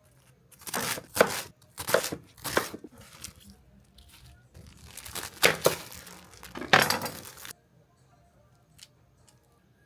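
Plastic food packaging being torn open and crinkled, in a series of rustling bursts that stop about seven and a half seconds in.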